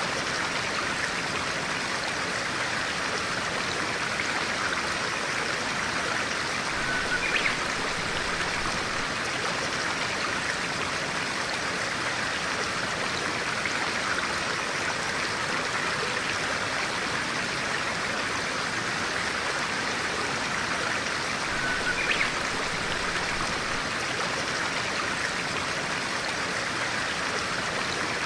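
Stream of clear water flowing steadily over rocks, an even rushing sound, with a brief bird chirp twice.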